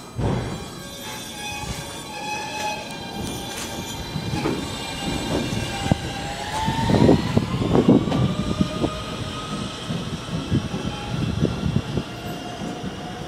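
R160B subway train's Siemens traction motors whining as it pulls out, several tones that rise in pitch from about six seconds in as it gathers speed. Steel wheels knock and clatter over the rail joints underneath.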